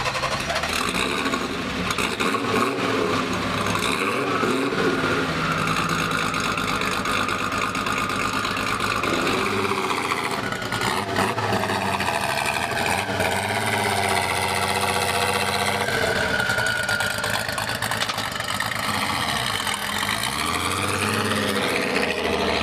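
Turbocharged VR6 engine of a twin-engine Volkswagen running on its own, with only the front engine started. The revs rise and fall in the second half.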